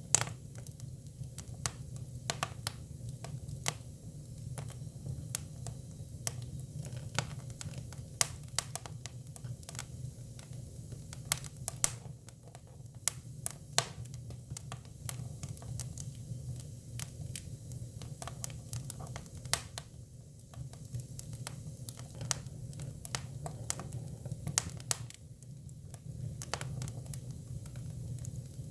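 Hinoki cypress firewood burning: a steady low rumble under irregular sharp crackles and pops, with a few louder snaps scattered through.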